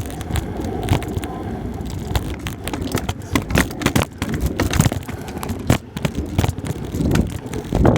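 Y Fliker drift scooter's small wheels rolling and scraping over wet ground, a steady rumble broken by many sharp clicks and knocks.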